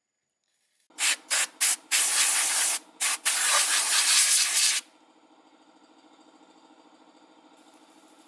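Hissing spray in bursts: three quick short blasts, then longer sprays with a brief one between them, stopping about five seconds in. A faint low hum continues after the spraying stops.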